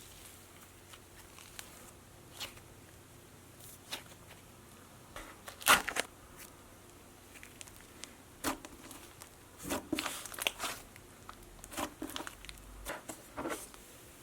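Slime being handled and played with: scattered sharp crackles and clicks, one stronger pop about six seconds in and thicker clusters of crackling later on.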